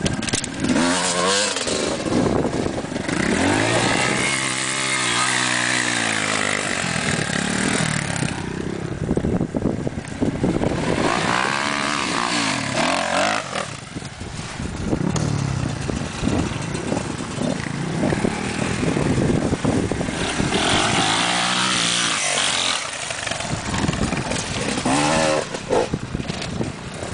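Dirt bike engine revving hard, its pitch climbing and falling again and again as the throttle is opened and closed.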